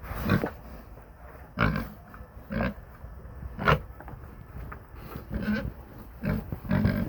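Pigs grunting, about seven short calls one after another.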